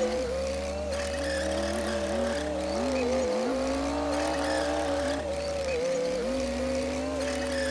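Komatsu D60P bulldozer's diesel engine running under load, its pitch wavering and dipping as it works.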